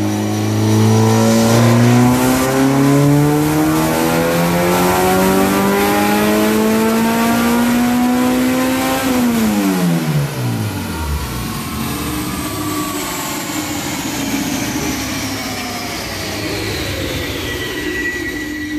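Honda K20A3 2.0-litre four-cylinder revving at full throttle on a chassis dyno. Its note climbs steadily for about nine seconds, then the throttle closes and the revs drop quickly. The engine settles to a lower note while a high whine falls slowly in pitch as the wheels coast down on the rollers.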